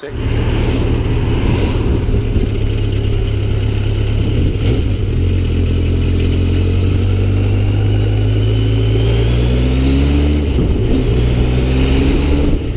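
Motorcycle engine under way, its pitch climbing steadily as it accelerates, with a short break about ten seconds in at a gear change before it climbs again.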